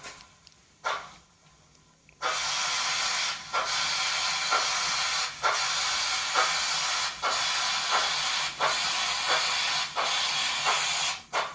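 Sound-equipped model 2-8-0 Consolidation steam locomotive: a few soft chuffs, then about two seconds in a loud steady steam hiss starts, broken by short gaps about once a second that come slightly faster near the end.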